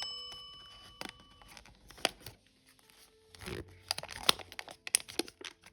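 A bell-like ringing tone fades out over the first second and a half. Then comes a sheet of origami paper crinkling and crackling in short bursts as it is pinched and creased along its folds during a petal fold.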